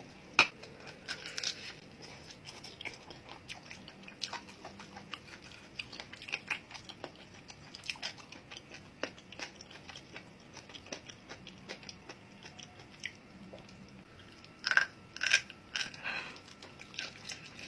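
Close-miked eating sounds: a person chewing and biting food, with scattered wet clicks and crunches. A louder run of crunchy bites comes near the end.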